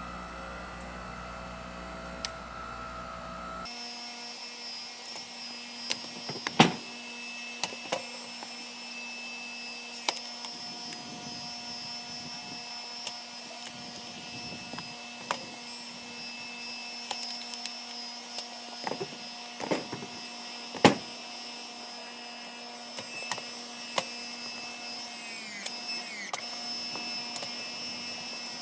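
Engine-driven hydraulic log splitter running with a steady hum, with sharp cracks and knocks of logs being split, the two loudest about 7 and 21 seconds in.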